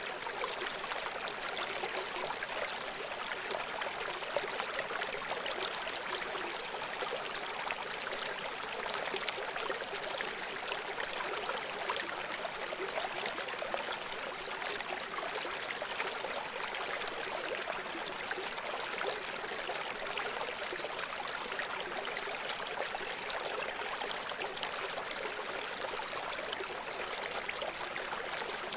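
A running stream: water flowing and splashing over rocks, a steady rushing babble with fine trickling detail.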